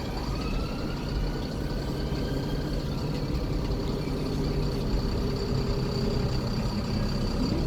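Scania coach's diesel engine running steadily at low revs, with a faint whine rising in pitch about a second in.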